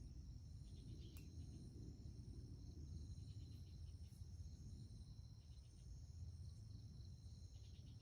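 Faint, steady high-pitched insect chorus, with short rattling trills about every two seconds, over a low rumble.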